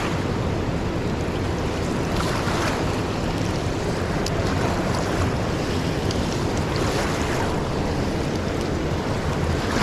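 Fast, swollen river rushing past close by: a steady, even roar of churning water with no break.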